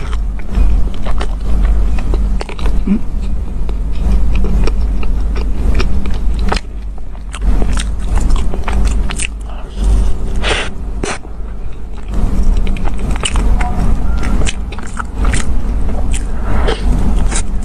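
Close-miked chewing of a soft chocolate-glazed donut, with many short wet mouth clicks and smacks, and a bite into the donut near the end, over a steady low rumble.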